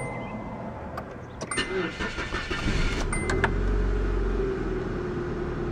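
1992 Nissan Stanza's 2.4-litre four-cylinder engine being cranked by the starter and firing up quickly, settling into a steady idle about three and a half seconds in. A few short electronic beeps come before the cranking.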